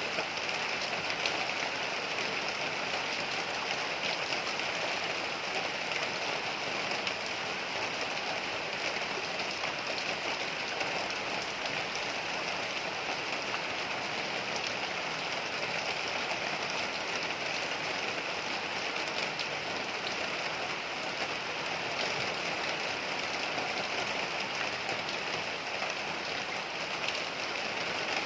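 Heavy rain falling steadily: a dense, even hiss with fine drop patter, unchanging throughout.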